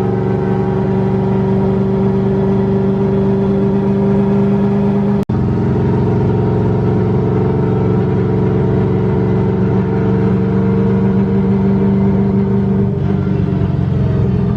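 LS V8 engine of a Nissan S14 240SX running at a steady cruise, its pitch drifting only slightly, with a brief gap about five seconds in.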